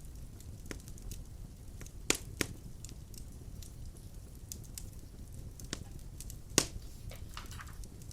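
Wood fire burning in a fireplace: a steady low rumble with scattered sharp crackles and pops, the loudest two close together about two seconds in and another near six and a half seconds.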